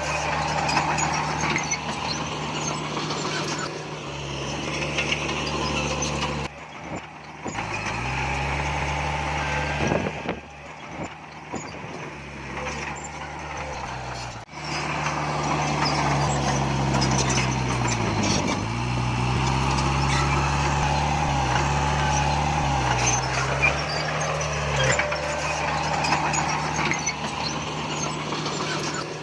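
Heavy diesel earthmoving machine engine working under changing load. Its pitch dips and recovers several times, and it drops quieter for a moment about seven seconds in and again for a few seconds around eleven to fourteen seconds in.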